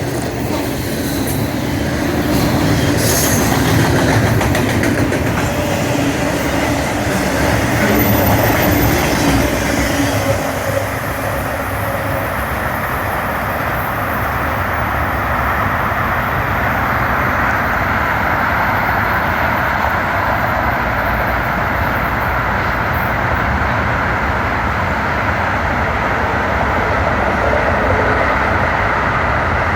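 BNSF freight train rolling past: a steady rumble of wheels on rail, with a few sharp clicks in the first few seconds.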